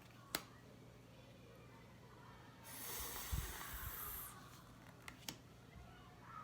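Faint handling of paper phonics flashcards: a sharp click just after the start, a soft rustle lasting about a second and a half in the middle with a few dull thuds, and two small clicks a little after five seconds.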